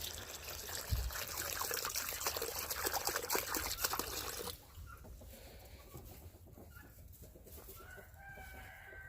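Water poured out splashing for about four and a half seconds, then cutting off sharply, while chickens cluck; near the end a rooster starts to crow.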